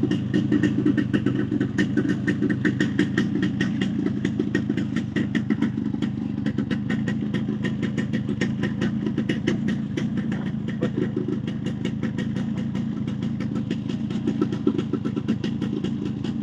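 Yamaha RX135's single-cylinder two-stroke engine idling steadily with a rapid, even exhaust beat, after a cylinder block refit with a thicker base gasket and a new gudgeon-pin bearing. The piston and block noise is much reduced, and the owner puts the remaining noise down to the aftermarket silencer.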